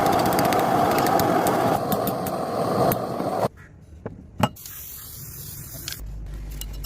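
A steady machine noise with scattered clicks that cuts off suddenly about three and a half seconds in. A few sharp knocks follow in a much quieter stretch.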